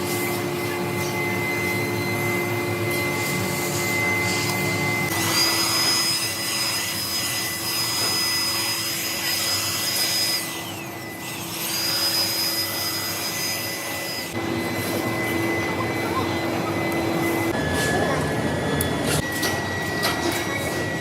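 Metalworking machine tool running steadily with a whining hum. A higher-pitched whine, typical of a cut in metal, sets in about five seconds in, breaks off briefly near the middle and returns before stopping about two-thirds of the way through.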